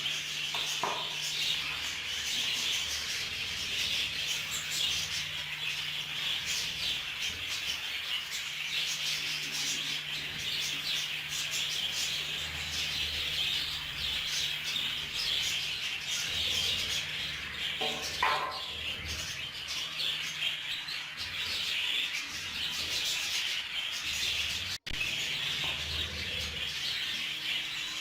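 Budgerigars chattering and chirping without pause, many birds at once, over a low steady hum that drops out now and then.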